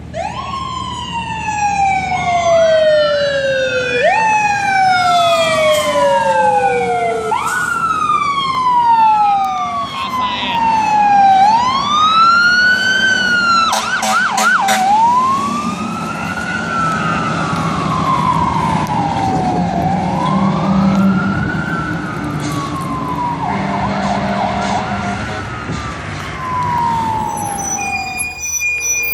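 Fire truck siren on a responding apparatus, first repeatedly rising sharply and winding slowly down, then wailing smoothly up and down, with a brief rapid warble about halfway through. A steady horn blast sounds near the end, over the rumble of the truck's engine.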